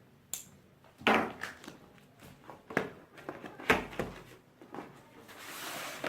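Tablet box being opened by hand: several sharp knocks and clicks of the packaging, then a soft sliding rustle near the end.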